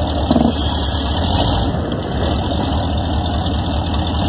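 Vehicle engine running steadily at idle, with a brief hiss of noise in the first two seconds.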